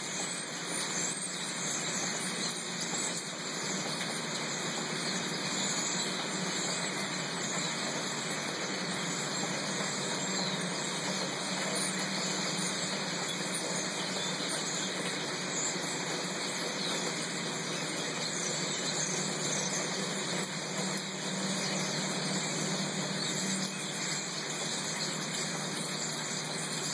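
Steady downpour of storm rain, with many short, high bird calls from a large flock scattered through it.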